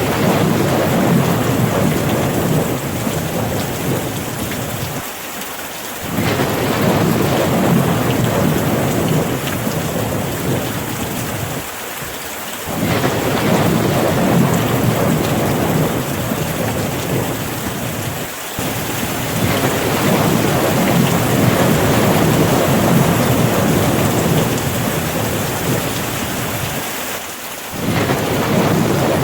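Steady rain with a deep thunder rumble under it. The low rumble swells and briefly drops away every five to seven seconds.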